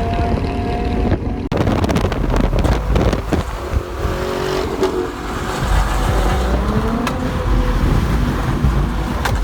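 Car engines running, with a sudden cut about a second and a half in; afterwards an engine's pitch rises briefly near the end.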